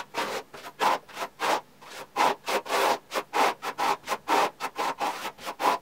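Quick scratchy rubbing strokes on fresh textured plaster, about four a second, as the surface is worked to raise a grainy, sandy finish.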